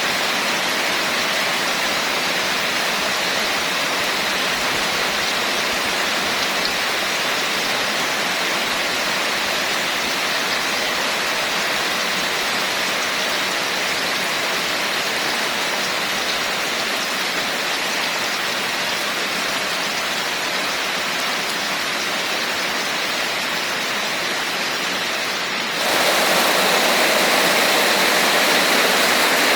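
Steady heavy rain, an even hiss with no distinct drops standing out. About 26 seconds in it switches abruptly to a louder, brighter rushing noise, as at a splice between two recordings.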